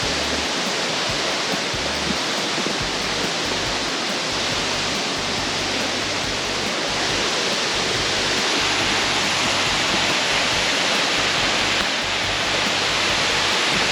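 Steady rush of stream water pouring and flowing over rocks, getting slightly louder about halfway through.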